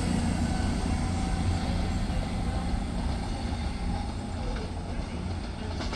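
A train's low rumble, steady and slowly fading as it moves away.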